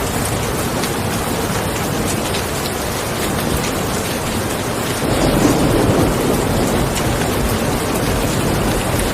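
Steady heavy rain falling, with individual drops ticking through the hiss. About five seconds in, a low rumble swells up under it and stays a little louder.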